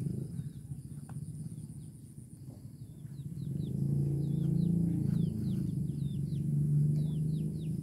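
Small birds chirping, a run of short, quickly falling high notes, several a second, beginning a couple of seconds in, over a low steady rumble that grows louder about halfway through.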